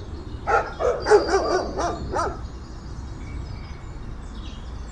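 Dog barking: a quick run of about seven short barks, ending a little over two seconds in.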